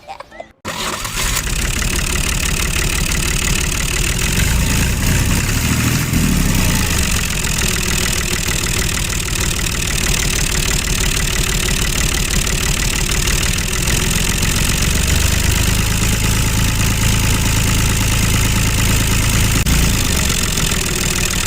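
Small mini-tractor motor running steadily with a low rumble and a fast, even chatter. It starts abruptly about half a second in.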